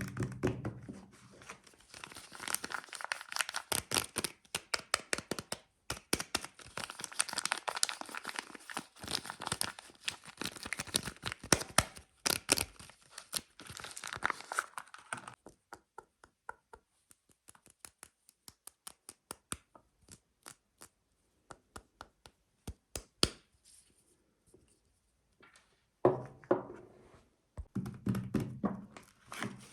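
Soap packaging crinkling and tearing as it is unwrapped by hand. Around the middle this thins to a run of sparse light taps and clicks, about one or two a second, before the crinkling picks up again near the end.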